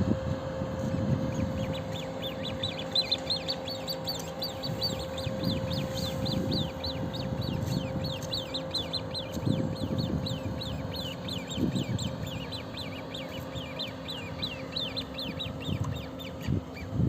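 A bird calling a long run of short, high, down-slurred notes, about four a second, that starts about a second and a half in and stops shortly before the end.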